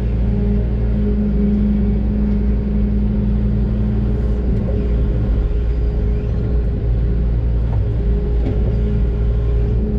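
Doosan DX600 excavator's diesel engine running steadily under load, a deep rumble with a steady hum over it. Its strongest low note weakens about four seconds in.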